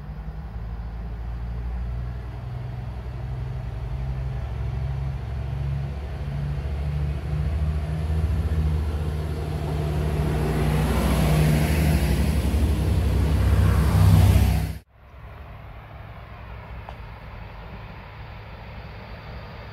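A train approaching and passing close by: a low drone and a rushing wheel noise build steadily louder, then break off abruptly about fifteen seconds in, leaving a fainter steady rumble.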